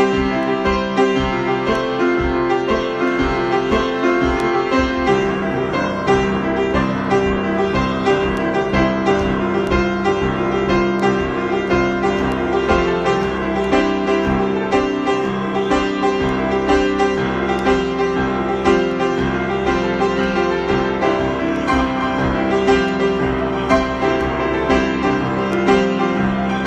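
Piano improvisation: a dense, continuous flow of sustained, overlapping notes and chords.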